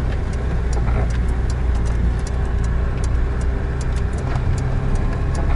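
GAZelle Next van driving, its engine running at a steady drone with road noise, and scattered light clicks and rattles throughout.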